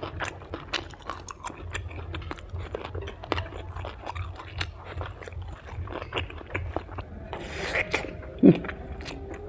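Close-miked chewing of crispy fried kimbap: wet mouth clicks and small crunches throughout. Near the end comes a bite into a sticky rice cake (bánh tét), then a short low hum that falls in pitch.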